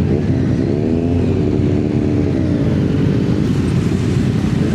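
Motorcycle engines running over a constant low rumble. One bike's engine rises in pitch about half a second in, holds steady, then fades after about three seconds.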